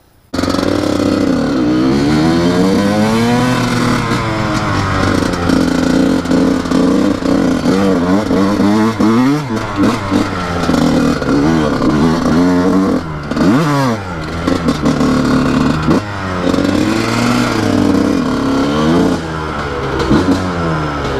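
Small pit-bike motorcycle engine running and revving, its pitch climbing and dropping again and again as it is ridden. The sound starts suddenly just after the beginning.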